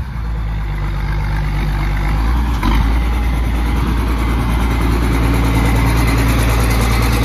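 Farm tractor engine running steadily with a deep low hum, a little louder from about a third of the way in. The engine is blowing white smoke, which the owners put down to water in the fuel.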